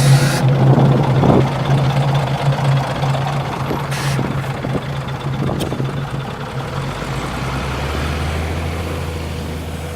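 Scania L94UB city bus's diesel engine running steadily, with short hisses of released air at the start and about four seconds in. From about seven seconds the engine note deepens and slowly fades.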